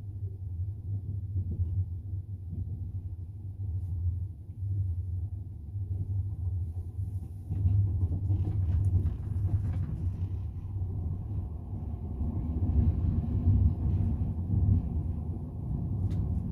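Double-decker passenger train running along the rails, heard from inside the carriage: a steady low rumble from the wheels and carriage, with a few faint clicks.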